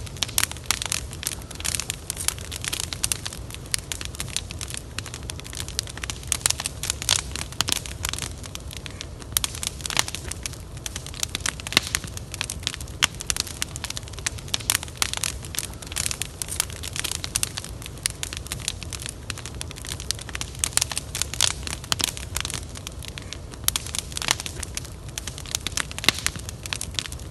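Wood fire crackling, with dense irregular sharp snaps and pops over a steady low rumble.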